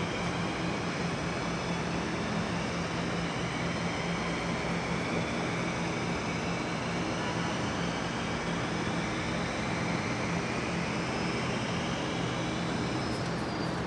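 Steady mechanical drone: a constant low hum under noise, with several high whining tones that drift slowly in pitch.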